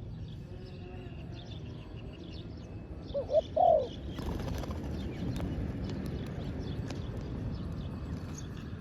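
Spotted dove cooing: two short notes and then a longer, arched coo about three seconds in. Small birds chirp faintly throughout.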